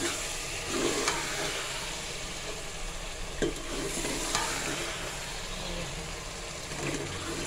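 Keema palak (minced meat with spinach) sizzling in oil in a pot as it is stirred with a spatula, with a few sharp clicks of the spatula against the pot. The sizzle is the dry frying (bhunai) of a nearly finished dish whose water has been cooked off.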